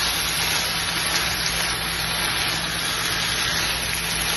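Minced meat and sliced green capsicum sizzling steadily as they fry in a pan while being stirred, the last of the water the capsicum released cooking off.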